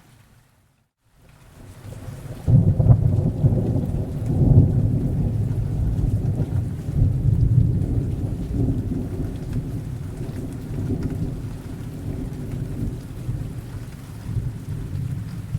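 Thunder rolling over steady rain: after a moment of silence near the start, a deep rumble builds, breaks loud about two and a half seconds in, then rumbles on and slowly fades.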